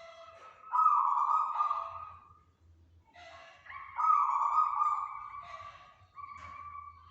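Local zebra dove (perkutut) cooing in repeated rolling phrases near 1 kHz, with two loud long phrases, one about a second in and one about four seconds in, and softer coos around them.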